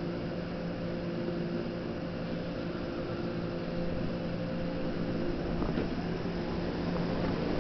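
Stationary Keikyu electric train humming at rest: a steady hum with several held tones from its onboard equipment and fans, with a faint click about three quarters of the way through.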